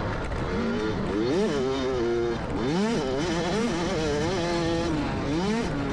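Motocross dirt bike engine revving up and falling back again and again, its pitch rising and dropping about five times as the rider works the throttle and gears around the track.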